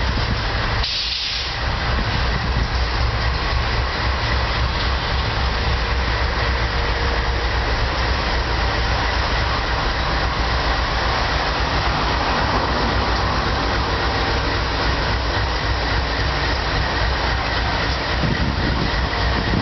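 GE C44-9W diesel locomotive's 16-cylinder engine running steadily as it passes with a freight train, over the continuous noise of wheels rolling on the rails.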